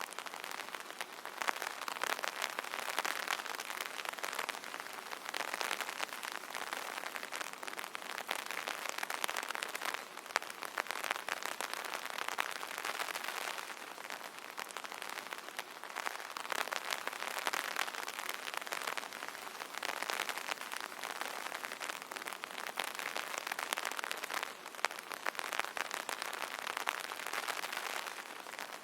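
Rain pattering steadily on an umbrella's fabric canopy, a dense spray of drop impacts that swells and eases every few seconds.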